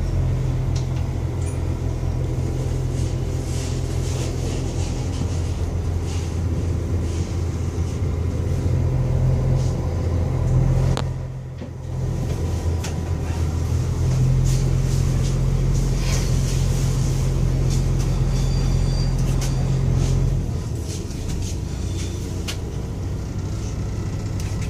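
Ottawa O-Train rail car running, heard from inside the car as a steady low rumble. The rumble dips briefly a little before halfway and eases a few seconds before the end, with scattered faint clicks and rattles.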